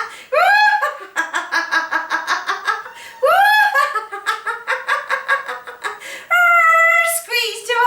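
A woman laughing heartily in quick ha-ha-ha runs, broken by a few rising whoops. This is deliberate laughter-yoga laughter, laughed on cue as an exercise.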